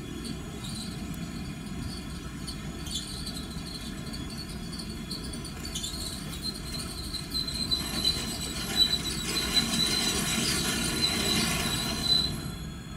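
TEP70 diesel locomotive and its passenger train rolling in to stop: a low rumble throughout, with a high steady squeal as it brakes that grows louder from about midway, then stops abruptly near the end.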